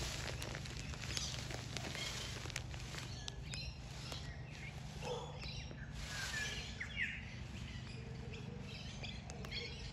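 Small birds chirping, short high chirps scattered through, over a steady low background hum.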